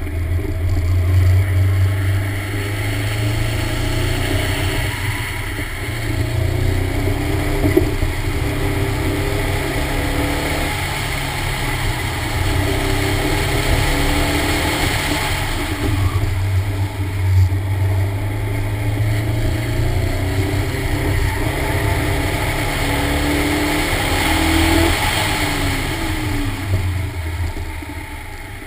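Toyota AE86 Corolla GTS's 1.8-litre 7A-GE stroker four-cylinder engine driven hard, its revs rising and falling repeatedly as it accelerates and lifts between turns. Near the end the engine note drops away and gets quieter as the car slows.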